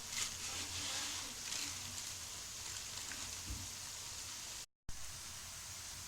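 Sliced onions sizzling in hot ghee in a kadhai, a steady low frying hiss, broken by a brief drop-out about three-quarters through.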